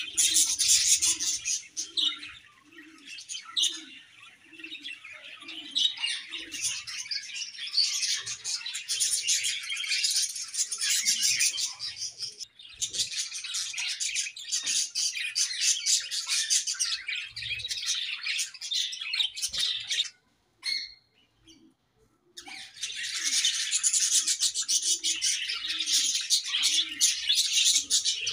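A colony of budgerigars chirping and chattering together in a dense, continuous stream of high calls, breaking off briefly about twenty seconds in before resuming.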